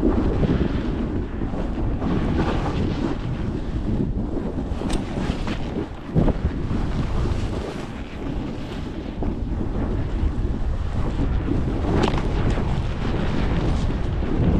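Strong gusting wind of a mountain blizzard buffeting the microphone, a loud low rumbling rush that swells and eases in gusts, with a few brief sharper noises in it.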